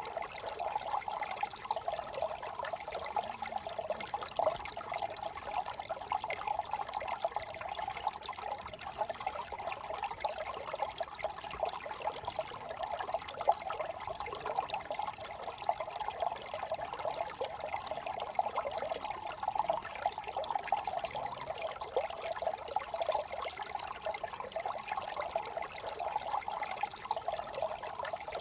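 A brook's running water trickling steadily, with no let-up.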